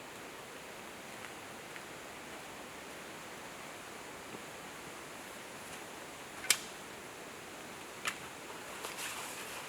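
Steady hiss, with one loud sharp click about two-thirds of the way in and a few fainter clicks near the end.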